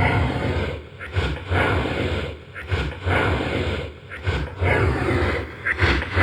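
A slowed, pitch-shifted voice recording played back as an EVP: rough, growling surges of noise about once a second, with no words that can be made out.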